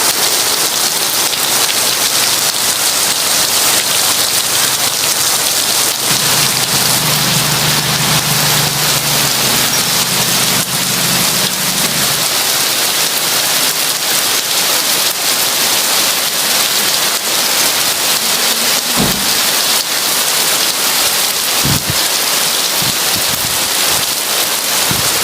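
Heavy rain falling in a steady dense hiss, with a low rumble of distant thunder from about six to twelve seconds in. A few short low thuds follow near the end.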